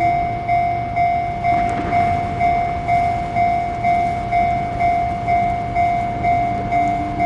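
Railway level-crossing warning bell ringing with an even electronic ding about twice a second, over the low rumble of a passing tram.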